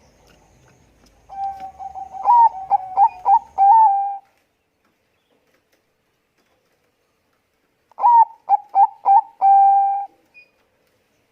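Zebra dove (Thai-bred 'Bangkok' perkutut) cooing in two phrases. Each is a quick run of short notes ending in a longer held coo, the second phrase starting about eight seconds in.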